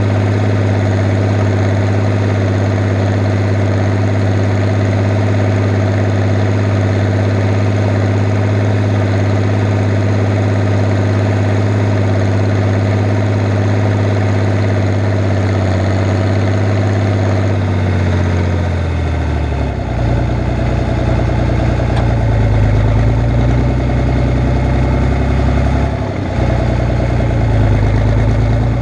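Fiat 110-90 tractor's diesel engine running steadily at ploughing work. About two-thirds of the way through its speed drops over a couple of seconds, and it settles into a lower, rougher note.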